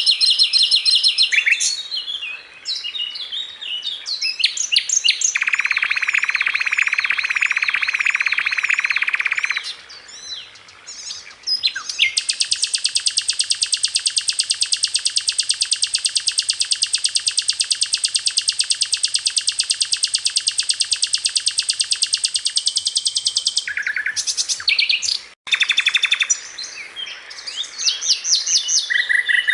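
Songbird song from a masteran training recording: quick varied chirps and whistles, a shorter buzzing trill a few seconds in, and a long, even, rapid trill lasting about ten seconds from about twelve seconds in.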